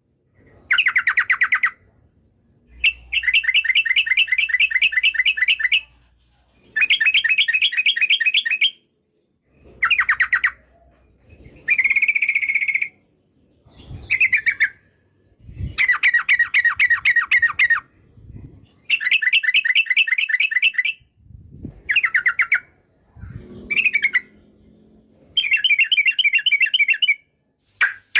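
Yellow-vented bulbul (trucukan) calling in about ten loud bursts of fast chattering notes, each lasting one to three seconds, with short pauses between them.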